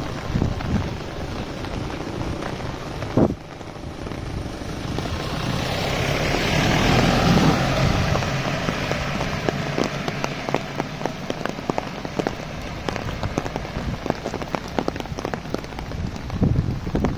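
Heavy rain falling, with drops striking an umbrella overhead as many sharp taps. A single loud knock comes about three seconds in, and a broad rush of noise swells and fades between about five and nine seconds.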